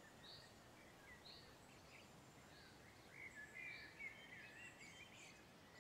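Faint songbird calls over quiet outdoor background: short high chirps about once a second, with a brief warbling phrase about three seconds in.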